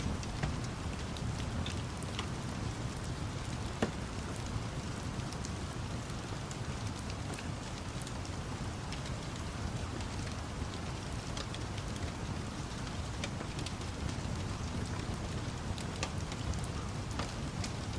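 Steady rain with scattered sharp crackles from a fire over a low rumble, and one louder pop about four seconds in.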